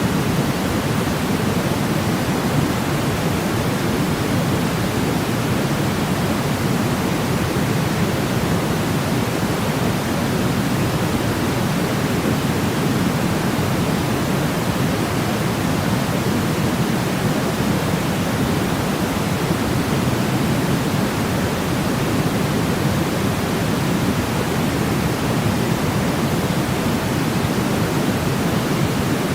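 Steady sleep-aid noise played for a baby: an even, unchanging hiss that is deeper than pure white noise, with most of its weight in the low end.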